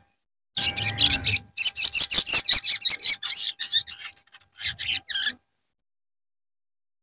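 Sogon bird calling: rapid, raspy, high-pitched chattering notes in quick runs, in three bursts that stop a little after five seconds in. It is the kind of call used to lure a wild sogon bird.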